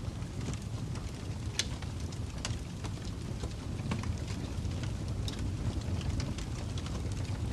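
Crackling fire: a steady low rumble under irregular sharp pops and crackles, the loudest about a second and a half in.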